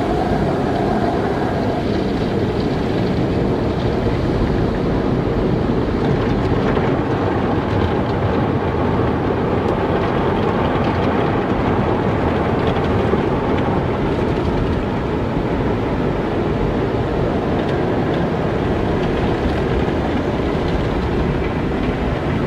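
Car wash running: a steady, unbroken rushing noise that stays at an even level throughout.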